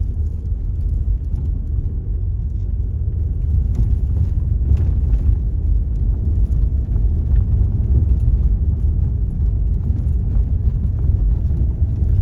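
A car driving along slowly, a steady low rumble of engine and tyres, with a couple of brief knocks about four to five seconds in.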